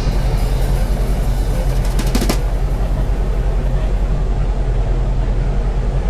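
Steady low rumble of a running machine, with a brief clatter of clicks about two seconds in.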